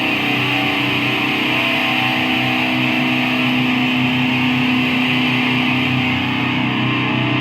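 Guitar music with a chord held steadily throughout.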